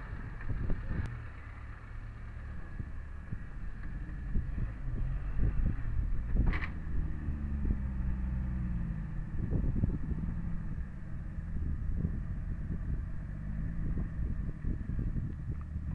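Off-road 4x4 engines running and revving unevenly as the vehicles crawl through muddy ruts, the pitch rising and falling with the throttle. A single short, sharp knock comes about six and a half seconds in.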